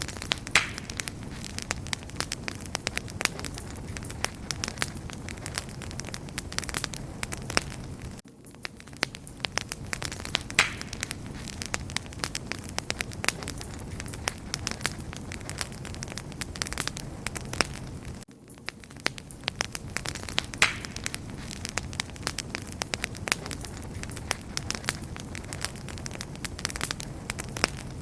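Wood fire crackling: a steady low hiss and rumble with frequent sharp pops and snaps, dipping briefly about every ten seconds.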